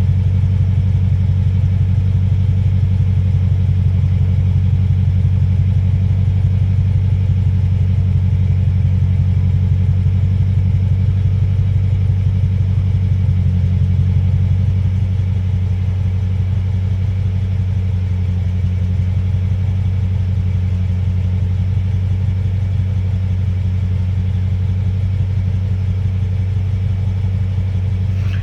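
2016 Dodge Charger R/T's 5.7-litre Hemi V8 idling with a steady, deep rumble through Borla Pro XS mufflers, running on an X-pipe with the resonators removed.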